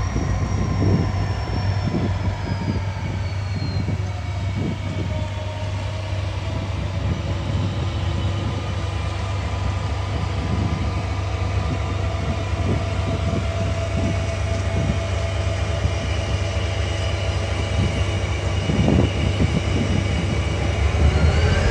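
A freight train moving slowly past. A diesel locomotive's engine runs with a steady low hum as hopper cars roll behind it, with high squealing tones in the first few seconds and again near the end, and scattered low knocks.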